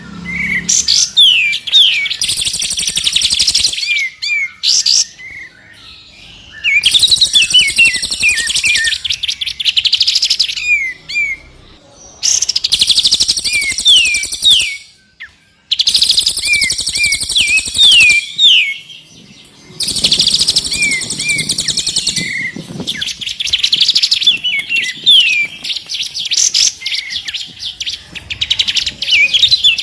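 Songbirds singing in loud, rapid phrases of chirps, dense trills and quick upward-sweeping whistles, broken by short pauses every few seconds.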